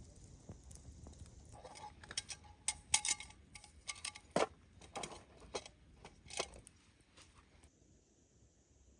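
A run of small, irregular clicks and knocks, some with a brief ringing tone, starting about a second and a half in and dying away after about six seconds.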